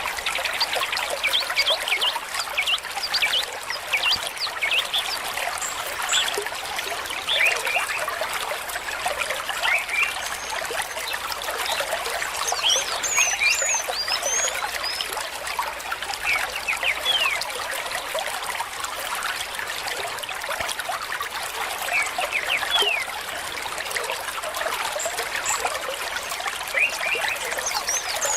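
A stream of running water flowing steadily, with many short, quick gurgles throughout.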